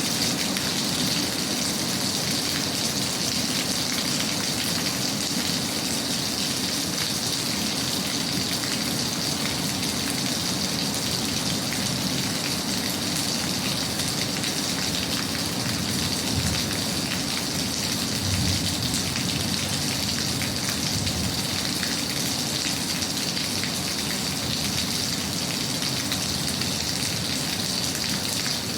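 Steady rain falling, an even, dense patter with no breaks or changes.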